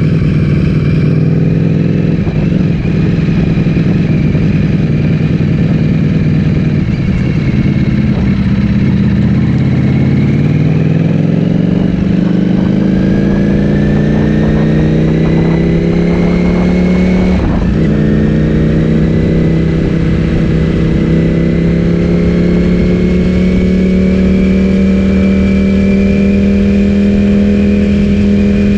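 Ducati Streetfighter V4S V4 engine through an Akrapovic full-system exhaust, heard while riding. It holds a steady note, then pulls up in pitch over several seconds, breaks off briefly about two-thirds of the way through, and settles into a steady, slowly rising note.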